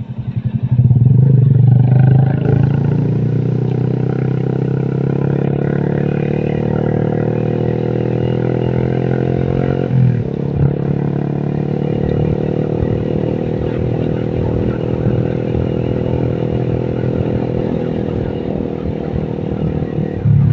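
Honda Vario scooter engine, tuned up with a 55 mm piston, under way. The revs climb slowly for several seconds, drop suddenly about halfway through, then hold steady.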